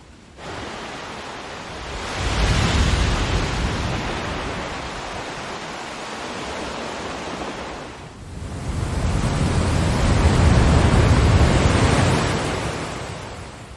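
Ocean waves surging in two swells of rushing water with a deep rumble underneath. The first rises sharply about half a second in; the second builds from about eight seconds in and fades near the end.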